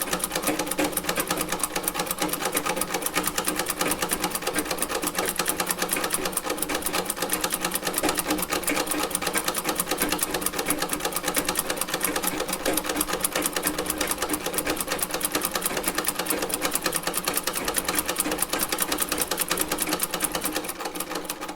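A vintage sewing machine, nearly 100 years old, running and stitching with a fast, even mechanical clatter. It eases off near the end.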